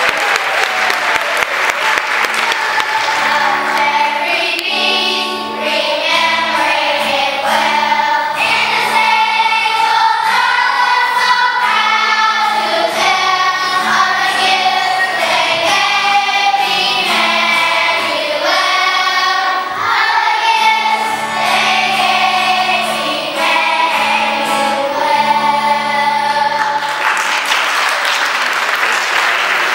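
Children's choir singing a song with instrumental accompaniment holding low notes; the song ends near the end and applause breaks out.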